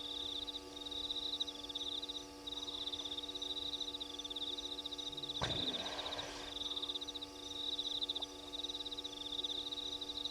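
Night insects trilling: a high, rapidly pulsed trill in phrases of about a second, repeating with short gaps, over a steady electrical hum. About halfway through, a brief louder sound falls quickly in pitch.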